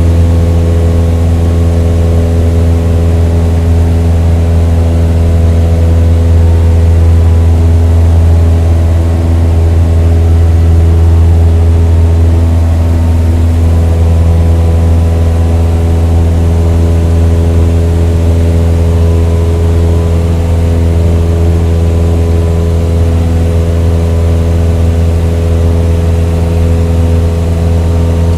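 An engine running steadily with a low, even hum that holds one pitch, with only a slight shift in tone about halfway through.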